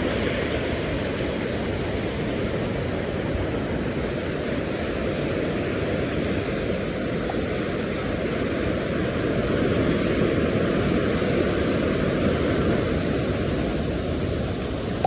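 Steady low rumble of wind and surf on the beach, unbroken and even throughout.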